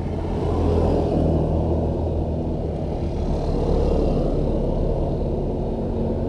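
Yamaha RX-King's 135 cc two-stroke single-cylinder engine and exhaust running steadily, a low rumble that swells and eases slightly.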